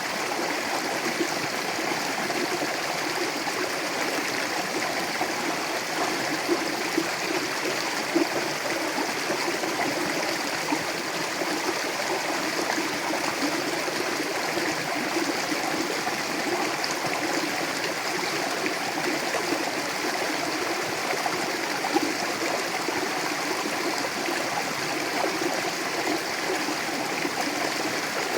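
Mountain river rushing steadily over rocks, a continuous full-bodied babble with small splashes now and then.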